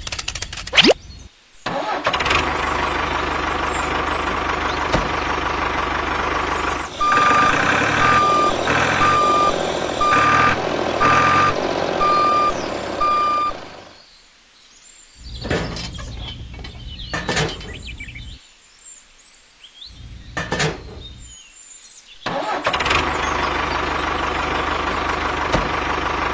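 A steady motor hum with a series of seven short electronic beeps, about one a second, like a vehicle's reversing alarm, partway through. The hum then breaks off into scattered knocks and gaps and starts up again near the end.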